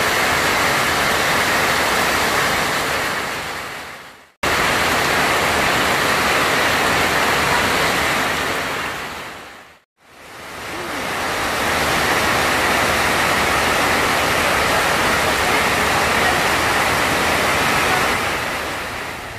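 Heavy rain pouring steadily, a dense hiss. It drops away and comes back twice, cutting back in sharply about four seconds in and fading back up around ten seconds.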